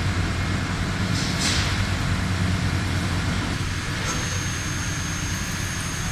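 WFL M60 MillTurn CNC machine running, a steady low mechanical hum. A short hiss comes about a second and a half in, and a thin high whine sets in around four seconds in.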